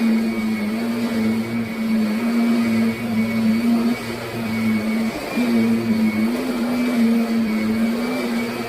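Kirby Sentria upright vacuum cleaner running, a steady motor hum that wavers a little in pitch and level.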